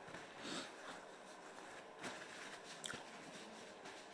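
Faint chewing and mouth sounds of a man eating, with two sharp lip smacks about two and three seconds in. A short paper rustle comes about half a second in.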